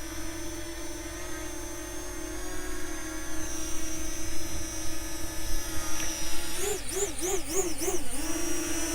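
Parrot Anafi quadcopter's rotors whining steadily in flight. Near the end the pitch swings up and down about five times in quick succession as the motors change speed, then settles back to the steady whine.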